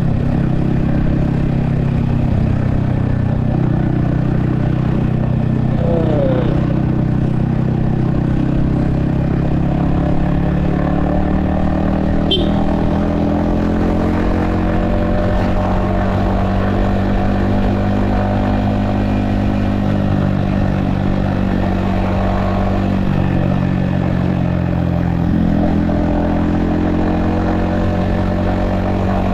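Yamaha XSR155's 155 cc single-cylinder engine and exhaust running while riding, heard from the rider's helmet with wind noise. The engine pitch rises and falls slowly with the throttle, and there is a short sharp click about twelve seconds in.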